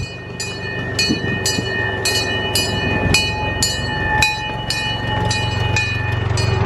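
Miniature park train running on its track, with an even clicking about twice a second over a steady whine and rumble.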